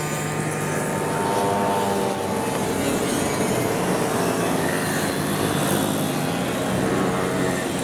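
Moped engines running as riders pass by, several engine notes overlapping, their pitch drifting slowly downward in the first couple of seconds.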